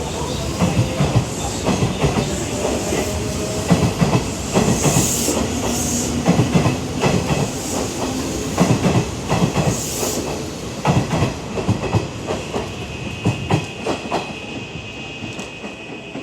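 Hanshin 8000-series electric train pulling out of the station, its wheels clattering over the rail joints in an uneven rhythm with a few bursts of hiss. The clatter fades over the last few seconds as the train leaves.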